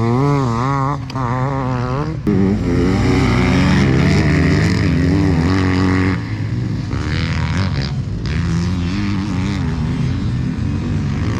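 Dirt bike engines running on a motocross track, the pitch rising and falling quickly as the throttle works. About two seconds in the sound changes abruptly to a steadier engine note that still swells and dips.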